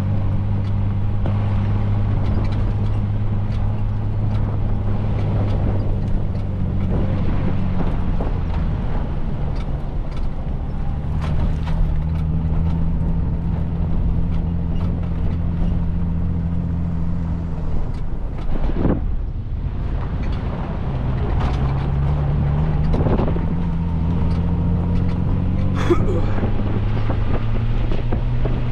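Car engine running while driving, a steady low hum whose note shifts about eleven seconds in and again about twenty-one seconds in, with frequent small knocks and rattles.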